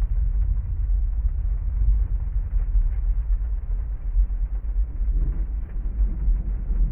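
Steady deep rumble of a heavy rainstorm. A roll of thunder starts to build near the end.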